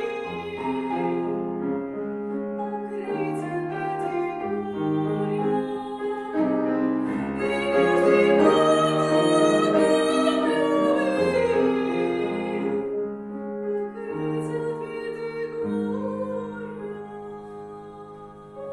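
Female classical singer with piano accompaniment, singing in an operatic style. Her held notes carry vibrato and swell to the loudest passage about halfway through, then the music grows quieter toward the end.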